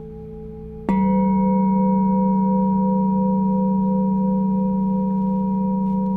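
A singing bowl is struck about a second in, over the fading ring of an earlier stroke, and rings on with a slow, even wavering pulse in its tone.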